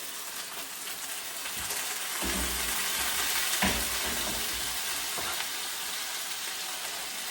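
Chicken wings sizzling in hot oil in a pan, the sizzle swelling about two seconds in. A single sharp knock about halfway through, with a fainter one a little later.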